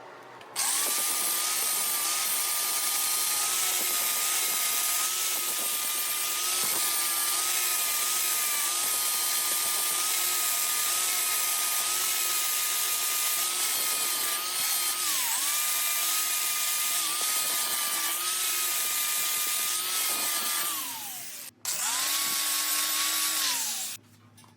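A high-speed handheld grinder blending weld filler smooth on a steel motorcycle frame, running at a steady high whine with brief dips in pitch as it bears on the metal. It winds down about 21 seconds in, is started again a second later, and winds down once more near the end.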